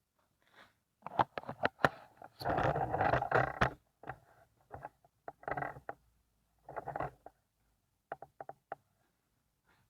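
Workshop handling noises: a series of sharp knocks and clicks, a longer rough noise lasting over a second about two and a half seconds in, a few shorter rough bursts, and a quick run of small ticks near the end.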